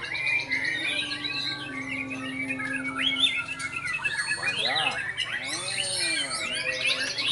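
White-rumped shama (murai batu) singing a continuous, varied song of quick whistles, chattering notes and rising and falling glides.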